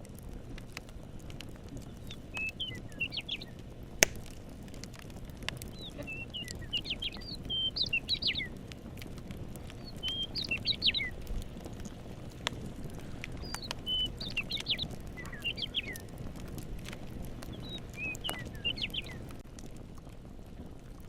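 Campfire crackling with scattered clicks and pops, one sharp pop about four seconds in. A songbird sings short, quick chirping phrases every few seconds over it.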